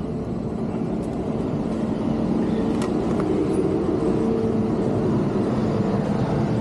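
Rheem air-conditioning condensing unit running with a steady hum.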